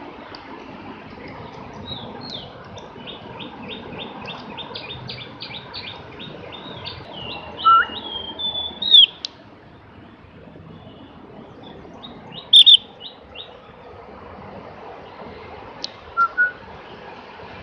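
Javan grey-throated white-eye (opior jawa) singing: a fast run of short repeated high notes lasting several seconds, then a few loud, sharp chirps, the loudest sounds here, over steady background noise.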